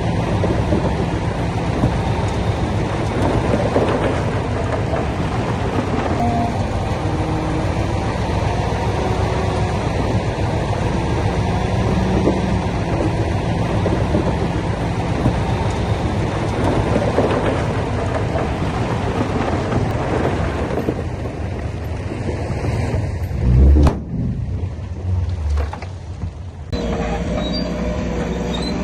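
Heavy crawler bulldozer working: its diesel engine runs under load while the steel tracks clank. There are a few heavy thuds about three-quarters of the way through, and the sound changes abruptly near the end.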